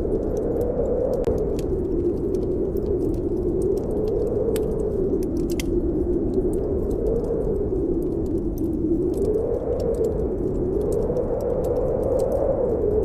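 Snowstorm wind howling steadily, its pitch slowly rising and falling, with scattered small crackles from a wood fire in a fireplace.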